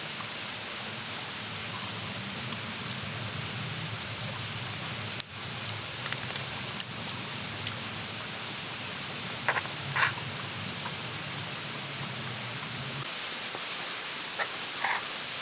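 Campfire burning with a steady hiss and scattered crackles. There is one sharp pop about five seconds in and short bursts of crackling around the middle and near the end.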